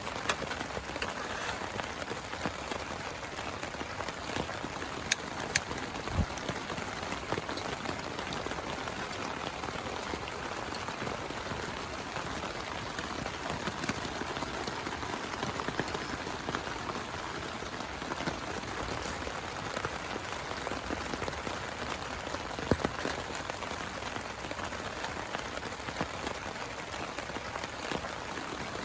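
Steady rain falling, with a few louder single drops tapping sharply, a couple about five seconds in and one about three quarters of the way through.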